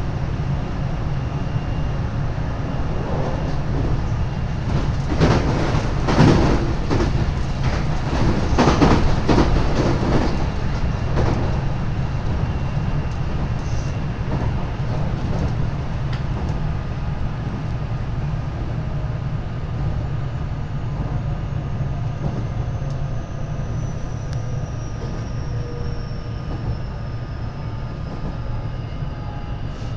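Running sound heard inside a JR West 227-series electric motor car with a Toshiba IGBT VVVF inverter: a steady low rumble of the wheels on the rails, with a run of clattering knocks over rail joints or points about a third of the way in. In the second half, the faint whine of the inverter-driven traction motors slides down in pitch as the train slows.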